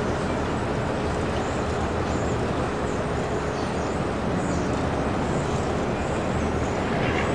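Tugboat's diesel engine running steadily: a low, continuous drone under an even wash of noise.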